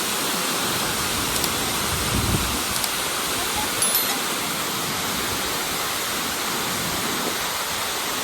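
Tortum Waterfall's water falling and rushing in a steady, unbroken wash, with a few faint clicks in the first four seconds.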